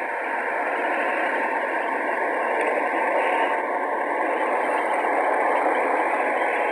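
Steady rushing jet noise of a departing Boeing 747, a little louder after the first second.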